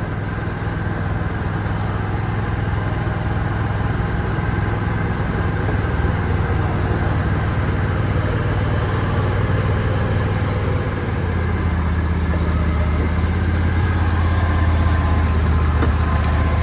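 Engine of an Argo amphibious all-terrain vehicle running steadily as a low hum. About eleven seconds in, the hum drops lower and grows a little louder.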